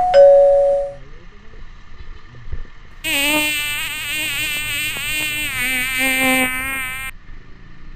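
A click and a short two-note chime, then a buzzing sound with a wavering pitch that starts suddenly about three seconds in and cuts off about four seconds later, like an insect-buzz sound effect.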